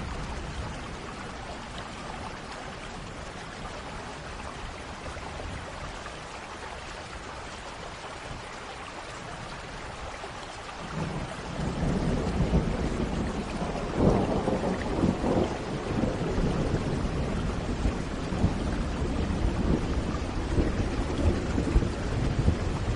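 Thunderstorm: steady rain falling, then about eleven seconds in a long roll of thunder starts, with a sharper crack a few seconds later as the rumbling goes on.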